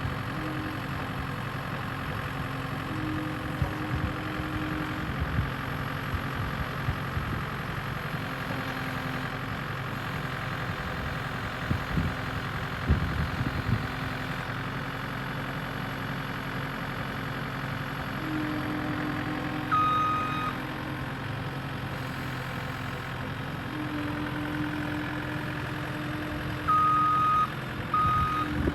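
Skid steer engine running steadily, with a couple of clanks midway. Its reversing alarm beeps once about two-thirds of the way through, then beeps repeatedly near the end as the machine backs up.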